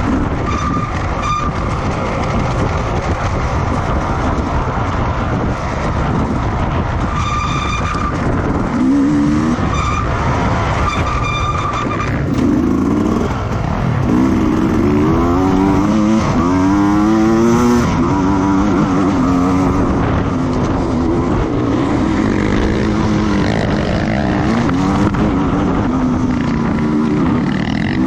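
Racing motorcycle engines running at speed and revving through the gears, the pitch climbing and dropping repeatedly from about nine seconds in.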